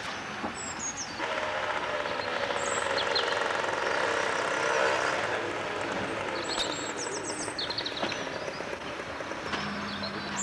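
Mechanical noise from a vehicle or heavy machine, with several steady tones, starting about a second in, swelling to a peak around five seconds and then fading. Birds chirp throughout.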